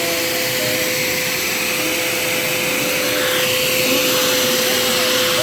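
Vacuum cleaner running steadily: a constant motor hum under a rushing hiss of air, whose sound shifts briefly about halfway through.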